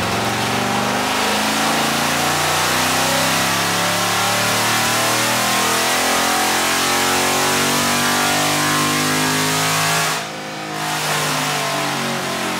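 6.4-litre Hemi V8 with long-tube headers, high-flow catalytic converters and the stock exhaust and mid mufflers, pulling at wide-open throttle on a chassis dyno. The exhaust note climbs steadily in pitch for about ten seconds, then the throttle is closed and the revs drop sharply.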